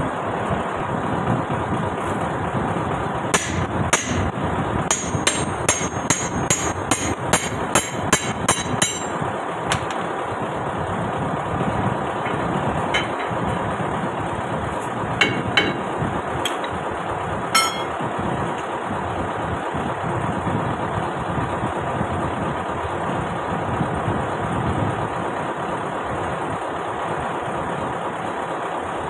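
Hammer blows on steel, a run of sharp strikes speeding up to about three a second over several seconds, then a few scattered blows, as a stuck suspension part is knocked loose. A truck engine running underneath makes a steady drone.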